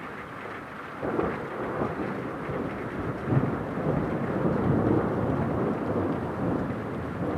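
Thunder: a long rolling rumble that starts suddenly about a second in and goes on for several seconds, over the steady hiss of rain.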